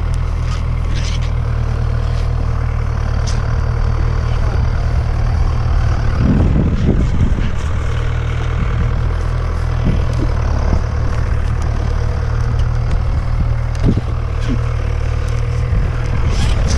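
An engine idling steadily with an even low hum, with a few brief knocks and rustles over it.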